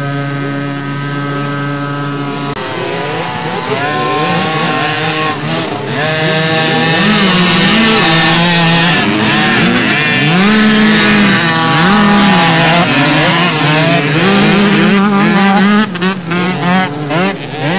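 Motocross bikes' engines held at a steady note, then about two and a half seconds in several bikes rev up and accelerate together. Their overlapping notes climb and drop repeatedly as they shift through the gears.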